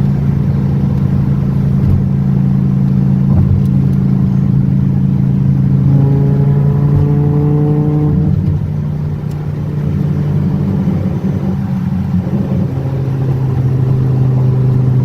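Hennessey-modified Dodge Viper V10 engine heard from inside the cabin, pulling under acceleration at highway speed. Its pitch rises about six seconds in, drops briefly after about eight seconds at a gear change, then builds again.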